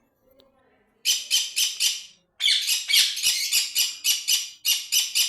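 Parrots squawking in a rapid series of short, harsh calls, about three a second, starting about a second in, with a brief pause just after two seconds.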